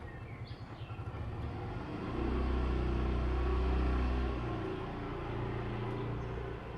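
Motor vehicle engine rumbling as it passes, swelling to its loudest about two seconds in and fading after about four and a half seconds, with a few faint bird chirps near the start.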